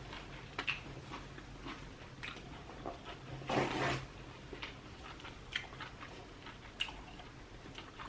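Close-miked chewing of lobster tail meat: soft, wet mouth clicks and smacks at irregular intervals, with one louder, longer noisy mouth sound about three and a half seconds in.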